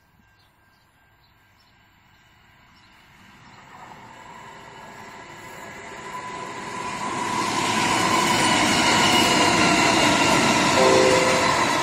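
Diesel freight train approaching and passing: the locomotives' engines and wheels on the rails grow from near quiet to loud over about eight seconds, then a steady rumble and rail noise as the leading locomotives and container wagons go by.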